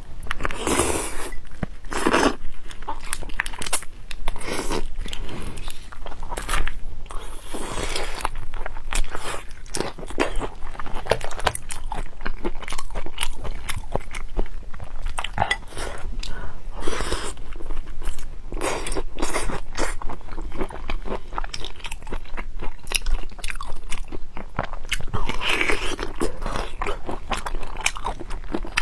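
Close-miked chewing and biting of raw marinated black tiger prawns: a dense run of small clicks and crunches, with louder bites every few seconds.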